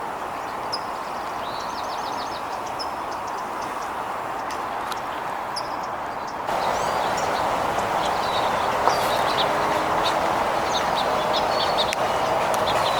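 Small songbirds chirping in short, repeated calls over a steady background noise, which gets louder about six and a half seconds in.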